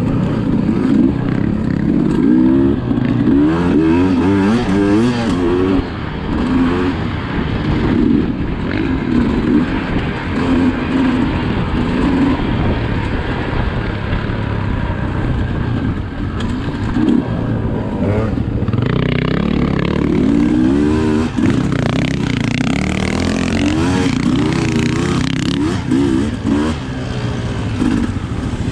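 Sherco SE300 two-stroke enduro motorcycle engine revving hard, its pitch rising and falling over and over as the throttle is worked.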